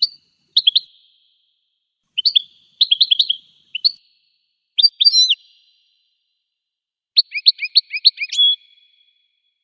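Goldfinch singing: short phrases of quick, twittering chirped notes separated by pauses, the last one a fast run of notes that ends in a briefly held note.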